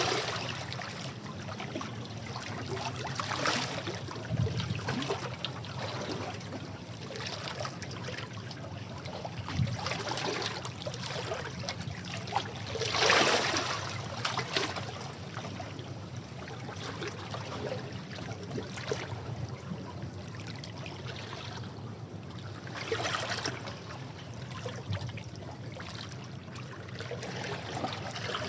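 Sea waves washing against rocks, a steady rush of water with irregular surges as waves break and drain back, the largest about halfway through.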